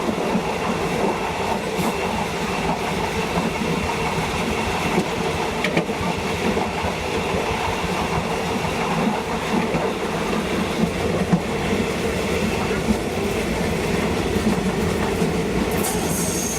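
Train running along the track with a steady rumble and the clickety-clack of wheels over rail joints. Near the end a high, thin, steady squeal of train wheels sets in.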